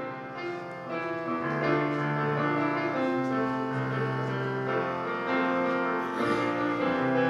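Piano playing a slow introduction of long, held chords and notes to a gospel song.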